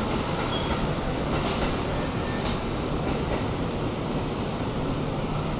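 Kintetsu electric commuter train moving slowly along the station track, a steady rumble of wheels and running gear. A thin, high wheel squeal sounds through the first second or so.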